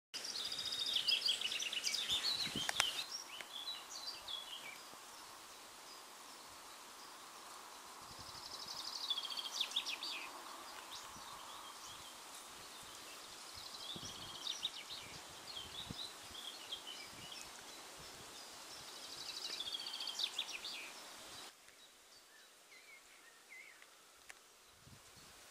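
A songbird singing short, quick, chirping phrases, repeated about every five or six seconds over a steady outdoor hiss; the background drops away abruptly near the end.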